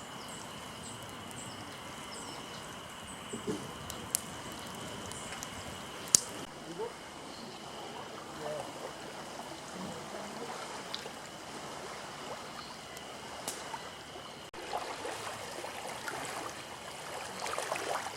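Wood campfire burning: a steady hiss with scattered sharp crackles and pops, the loudest about six seconds in.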